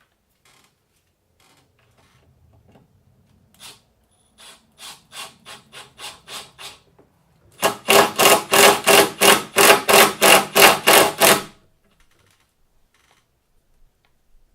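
Rhythmic rasping back-and-forth strokes of a hand tool worked on PVC pipe. A few light strokes come first, then about a dozen fast, loud ones, three or four a second, which stop suddenly.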